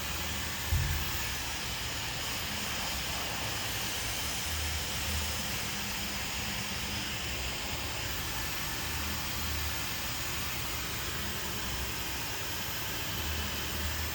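Hand-held hair dryer blowing steadily, an even rushing hiss, with a brief low thump about a second in.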